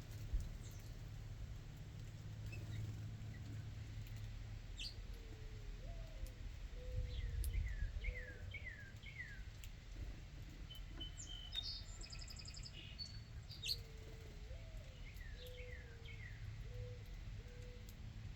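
Backyard birds calling: a low phrase of one rising note and three level notes, heard twice, alongside runs of short falling chirps and a brief higher song in the middle, over a steady low rumble.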